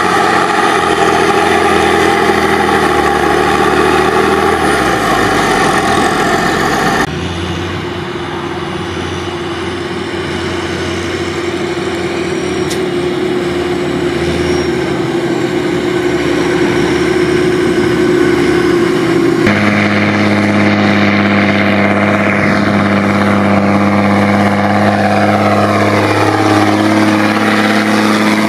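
Vehicle engine running steadily, idling with a few small shifts in pitch, in three stretches joined by abrupt cuts about 7 seconds and about 19 seconds in.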